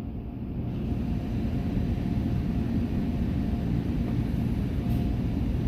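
Automatic car wash equipment running, heard from inside the truck's closed cab: a steady low rumble with a spray-like hiss that grows a little about a second in.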